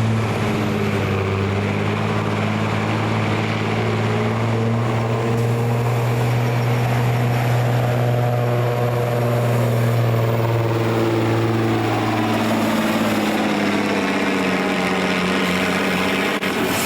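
Engine of a truck or tractor pulling the sled, running hard under load with a steady, deep drone. About twelve seconds in its pitch shifts, and near the end it climbs.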